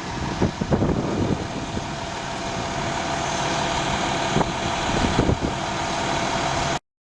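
Steady engine noise from fire apparatus running at the fire scene, with a thin steady hum and a few knocks, cutting off suddenly near the end.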